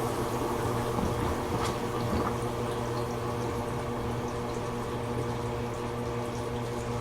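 Toshiba AW-42SEE4 fully automatic washing machine with water running and splashing in the tub over a steady hum, late in its standard wash course.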